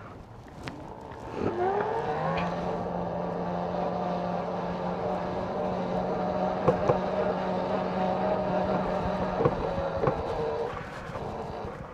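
Electric bike motor whine rising in pitch as the throttle is opened about a second and a half in, then holding a steady whine at cruising speed, with a few sharp knocks, before easing off near the end.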